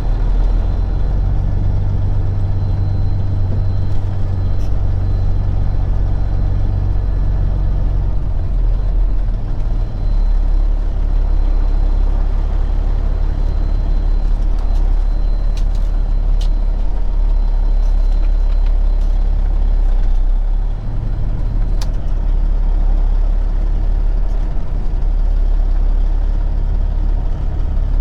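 Peterbilt 379 semi truck's diesel engine running at low speed while maneuvering. Its note shifts about eight seconds in, drops away briefly near twenty seconds and then picks up again, with a few faint clicks along the way.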